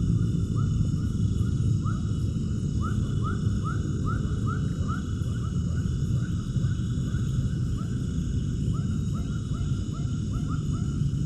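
Animal calls: short chirps, each rising in pitch, repeated several times a second in uneven runs, over a steady low rumble.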